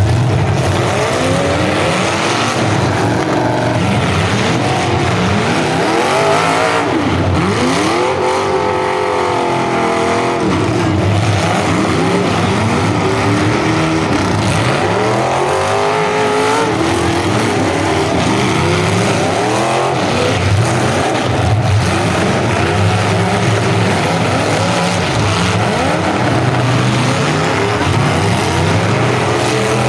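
Engines of several full-size demolition derby cars revving over and over, many overlapping pitches sweeping up and down.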